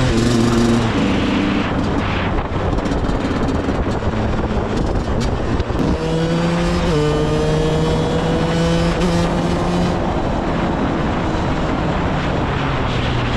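KTM 125 EXC two-stroke single-cylinder engine running under way, its note shifting with throttle and rising slowly through the second half, with rushing noise over it.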